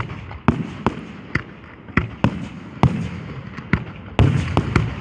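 Fireworks exploding in a rapid, irregular series of sharp bangs, about ten in five seconds, with a longer rumbling burst about four seconds in.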